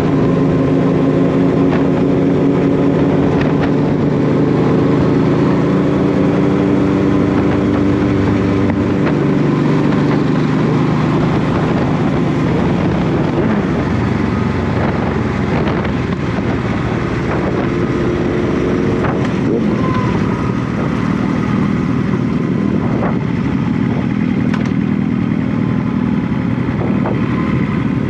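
Honda VT1100 Shadow Ace V-twin motorcycle engine running while riding, with wind and road noise over the microphone. The engine note is clear and steady for about the first nine seconds, then sits lower under the wind noise.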